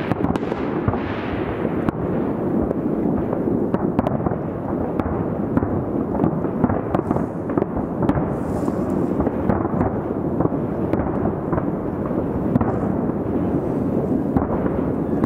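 Aerial fireworks display heard from about two kilometres away: a continuous, dense run of overlapping bangs and crackles with little high end, with sharper single pops scattered throughout.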